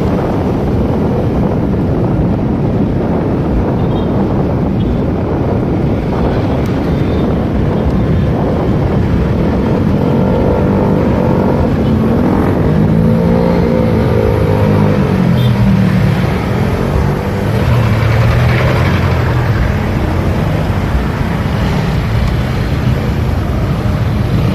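Motorcycle ride with the engine running under steady wind noise on the mic. From about ten seconds in, an engine note rises and falls for several seconds.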